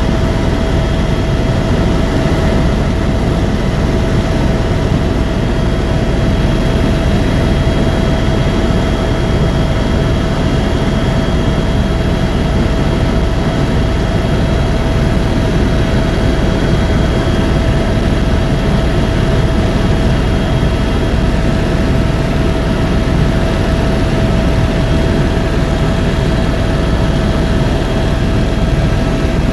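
Helicopter in flight: a loud, steady drone of rotor and turbine engine, with a constant high whine over it.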